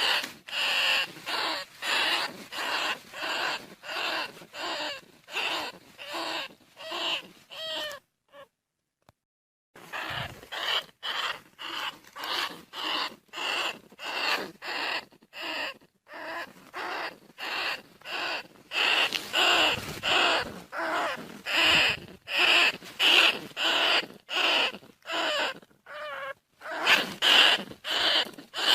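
Bandicoot rat calling: a run of short, rasping squeaks at about two a second, broken once by a pause of about two seconds near a third of the way through.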